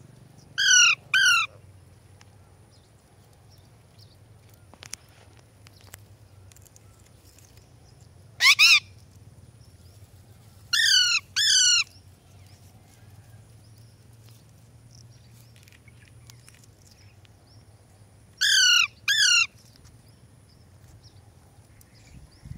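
Pet parakeet screeching: short, loud, harsh calls, mostly in quick pairs, coming about a second in, near nine seconds, near eleven seconds and near nineteen seconds. A low steady hum runs underneath.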